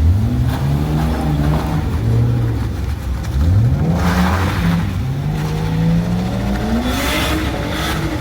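Car engine revving and accelerating, its pitch climbing steeply at the start and again about three and a half seconds in, then rising slowly. Bursts of hiss come about four and seven seconds in.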